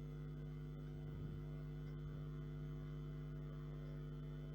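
Steady electrical hum with a stack of overtones, unchanging throughout; no other sound stands out.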